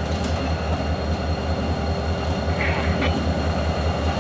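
EMD GP40-2 locomotives' 16-cylinder turbocharged diesel engines running with a steady low throb. A faint short knock sounds about three seconds in.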